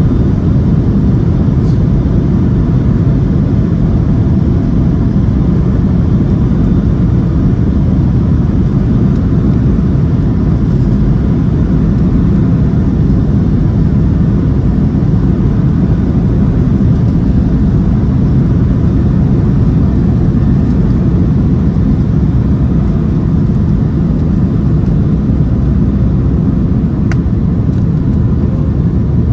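Steady, loud rumble of a Boeing 737-700's CFM56 engines at high thrust during takeoff, heard inside the cabin from a window seat.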